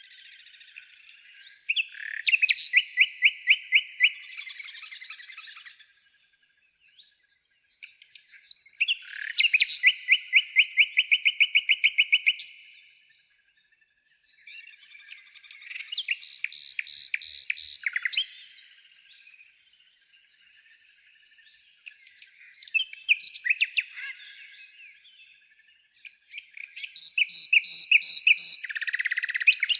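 A songbird singing in repeated phrases, five in all, each a few seconds long with a fast trill of evenly repeated high notes, separated by short pauses.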